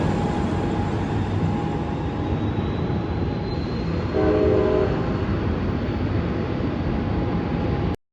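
Train rolling past with a steady rumble of wheels on rail, and a short horn blast of under a second about four seconds in. The sound cuts off abruptly near the end.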